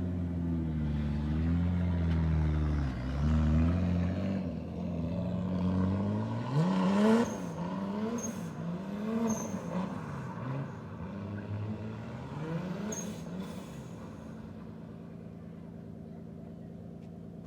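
A car engine running, then revved hard several times from about six seconds in, its pitch climbing and dropping with each blip, loudest on the first rev. Near the end it settles back to a lower, quieter run.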